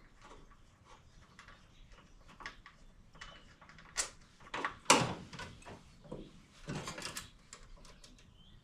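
Scattered clicks, clanks and knocks of hand tools and metal parts being handled while fitting fuel lines, with a sharp clank about five seconds in and a short run of knocks around seven seconds.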